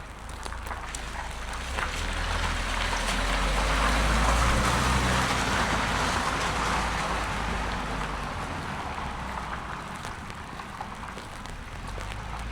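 A car passing on a rain-wet street: its tyres hiss on the wet road and its engine rumbles, swelling to a peak about four seconds in and then fading away.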